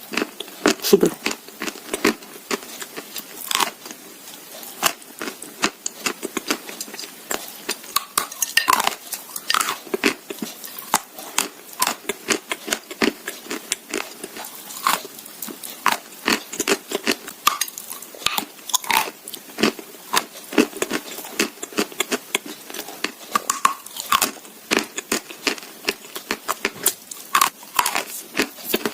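Close-up crunching of edible clay: repeated sharp bites and crackling chews, many small crunches a second, with pauses between bites.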